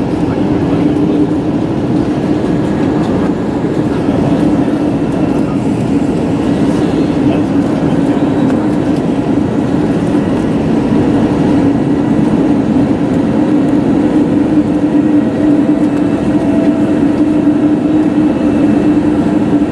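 Steady cabin noise inside an Airbus A321neo: an even rush of engine and air noise with a strong low hum.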